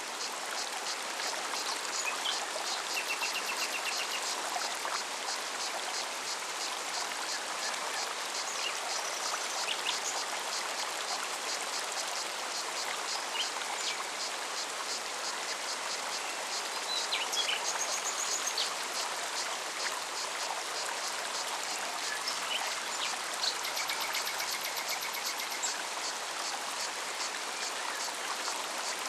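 Forest mountain stream running with a steady rush of water. A cicada pulses rapidly above it, and birds give short chirps and trills now and then.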